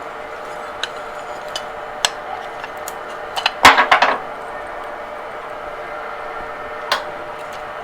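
Small metal parts clinking and knocking as a mower wheel assembly is taken apart by hand, with a cluster of louder knocks a little after the middle and a few single clicks.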